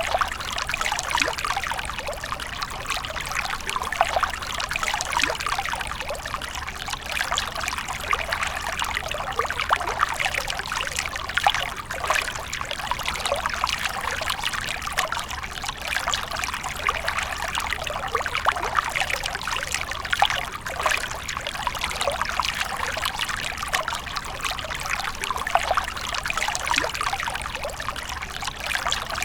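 Water fountain trickling and splashing continuously, with many small irregular droplet splashes.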